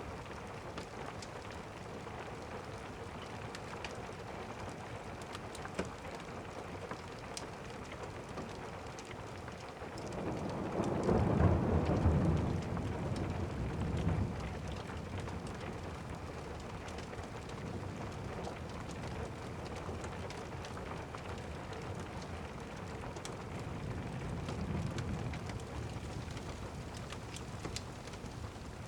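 Steady rain falling, with a roll of thunder rumbling in about ten seconds in and fading over some four seconds, and a fainter rumble near the end. Scattered faint clicks sound over the rain.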